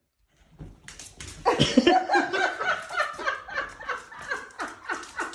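A person laughing hard, starting about a second in, in a long run of quick repeated bursts about three a second.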